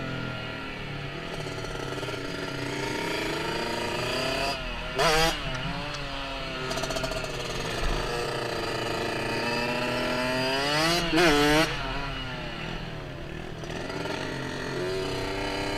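Small off-road engine running under way, its pitch rising and falling slowly, with two short, louder rev blips about five and eleven seconds in.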